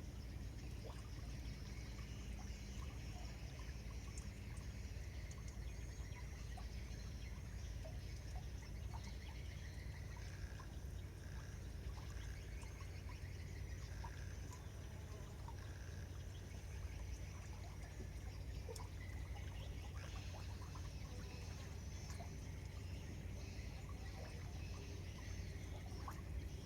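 Water lapping and trickling over a steady low rumble, with many faint scattered clicks and chirps.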